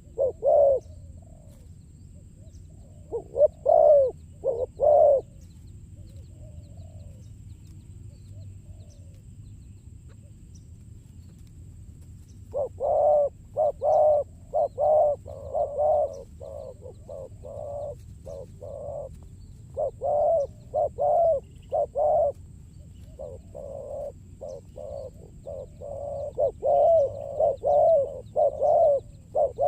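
Spotted doves cooing: a few coo phrases about three to five seconds in, then after a lull a near-continuous run of repeated cooing phrases from about twelve seconds on.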